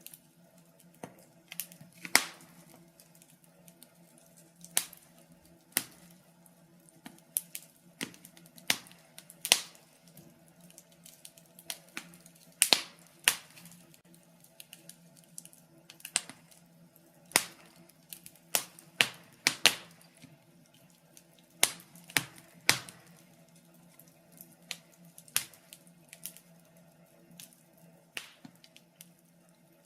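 Wood fire in a fireplace crackling: irregular sharp pops and snaps from the burning logs, a few of them much louder, over a faint low steady hum.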